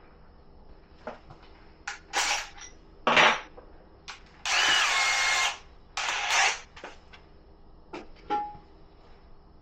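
Power drill run in several short trigger pulls, the longest about a second long in the middle, its whine dropping in pitch as the bit bites.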